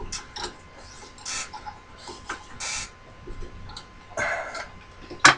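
Drill chuck being worked loose with a chuck key and cheater to free a drill bit held tight in it: scattered metallic clicks and short scrapes, with one sharp, loud click near the end.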